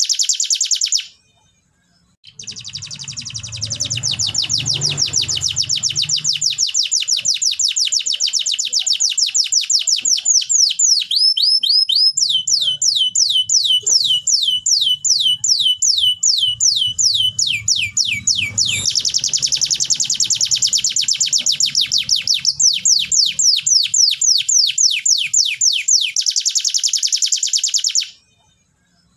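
Canary singing in long rolling trills of rapid repeated falling notes, with a slower series of separate, longer falling notes in the middle before the fast trill returns. The song breaks off briefly about a second in and again near the end.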